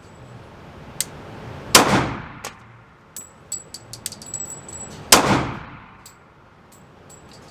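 Two pistol shots about three and a half seconds apart, each with a ringing, echoing tail, with lighter sharp clicks and clinks in between.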